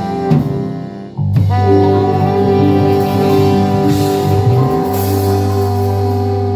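Live pop band playing: a short break about a second in, then the whole band holds a long sustained chord over a steady bass note.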